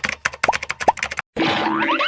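Edited intro sound effects: a fast run of clicks with two short rising pitch sweeps. These cut out abruptly about 1.3 seconds in, and synthetic music with quick upward-sliding tones over a steady low note takes over.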